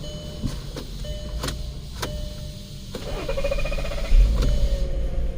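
A few clicks, then the starter motor of a VW Passat 3.6 V6 whines briefly about three seconds in, and the engine catches about a second later and runs with a low rumble.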